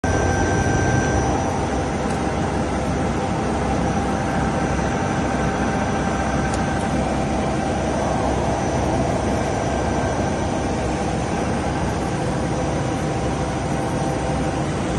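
Nomura BN135QF CNC floor boring machine running: a steady mechanical noise with a thin high whine on top.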